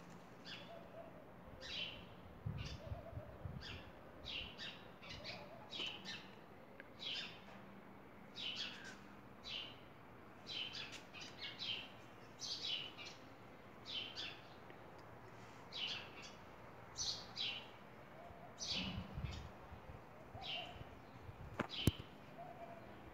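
A small bird chirping over and over, short high chirps about once or twice a second. A single sharp click near the end is the loudest sound, with a couple of faint low rumbles along the way.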